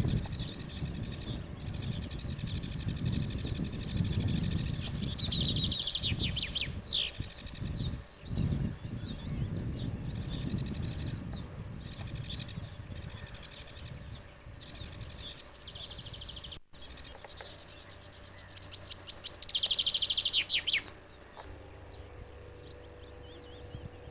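Small songbirds chirping and calling over one another, with a rapid trill about a quarter of the way in and a louder one toward the end. A low rumble lies under the first half, and a faint steady hum takes over near the end.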